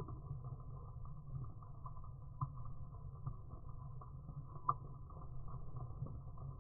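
Rain falling on a wet road and its puddles: a steady patter of drops with a few sharper single drop hits, over a steady low rumble.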